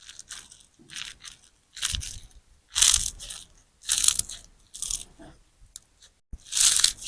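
A large sponge soaked with clear slime, squeezed by hand in repeated squishes about once a second, seven in all. The loudest come near the middle and at the end.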